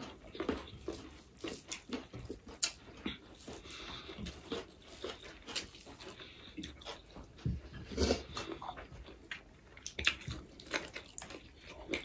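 Eating sounds close to the microphone: irregular chewing, lip smacks and small wet clicks, a few every second.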